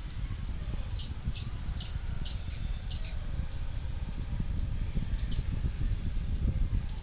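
Sparrows chirping: a quick run of short, high chirps starting about a second in and lasting about two seconds, then a single chirp near the end, over a steady low rumble.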